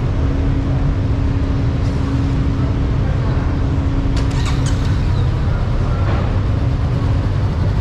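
Motorcycle engine running at a steady speed while riding, a constant engine drone over wind and road noise, with a few faint short high sounds about halfway through.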